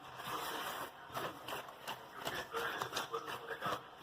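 A spoon beating eggs and sugar by hand in a bowl: irregular knocks and scrapes against the bowl.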